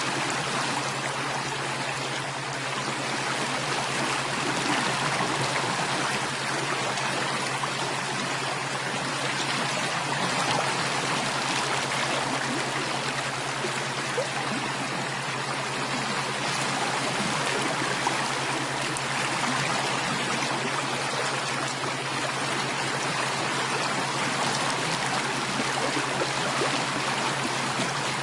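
Running water of a flowing stream, a steady even rush and trickle, with a steady low hum underneath.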